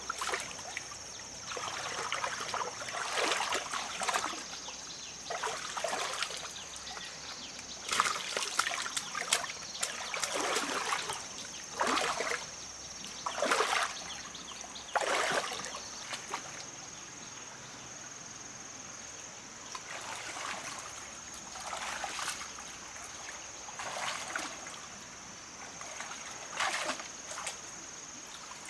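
Water splashing and sloshing in repeated short bursts every second or two, growing sparser in the second half, over a steady thin high-pitched tone.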